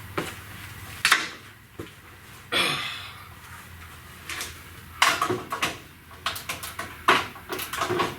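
Hand tools working on car-body bolts: sharp metallic clicks and knocks, with a short scraping rasp about two and a half seconds in and a quicker run of clicks and clinks from about five seconds on.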